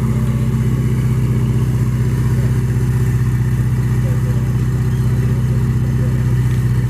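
A vehicle engine idling loud and steady, one unchanging low note with a fast, even exhaust pulse.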